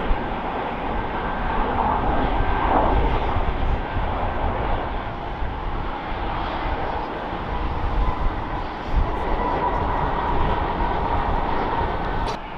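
Boeing 737-800 airliner's CFM56 turbofan engines running as it lands: a steady jet rush with a thin, even whine.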